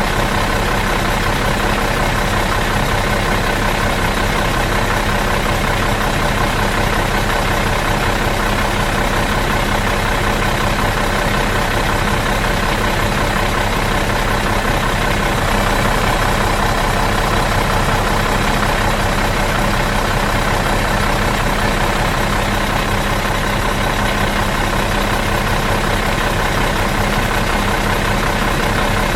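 Bus engine idling out of gear, running low and steady without change.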